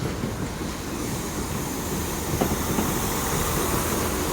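Passenger train running into the platform, its steady rumble slowly growing louder, with a sharp clack about two and a half seconds in.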